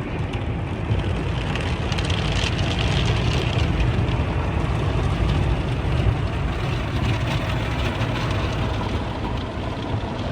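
Automatic car wash working over a car, heard from inside the car: steady rushing water spray and machinery rumble.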